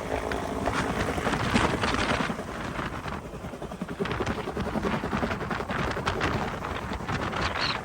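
Huey helicopter's rotor and turbine running steadily, with wind buffeting the microphone.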